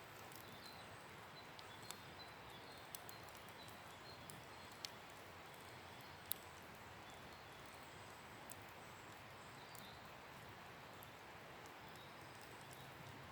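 Wood campfire crackling quietly, with a few sharp isolated pops, the loudest a little after six seconds in, over a soft steady hiss.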